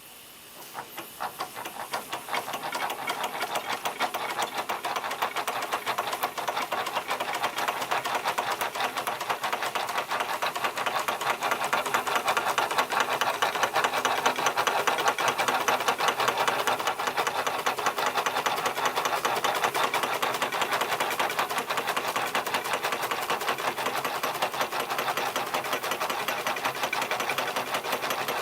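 J. Falk model 143/2 toy steam engine running fast with a rapid, even mechanical clatter. It picks up over the first couple of seconds, then keeps running steadily.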